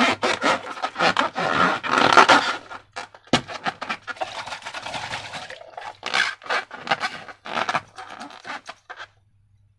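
Sticky slime being worked and squished, a rapid run of wet squelches and little crackling pops, thickest over the first few seconds, then sparser, stopping about nine seconds in.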